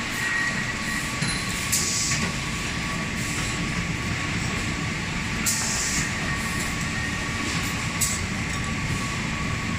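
Hydraulic end forming machine running with a steady hum and a thin steady whine from its hydraulic pump. Two short hisses come about two seconds in and again near six seconds, and a sharp click comes near eight seconds.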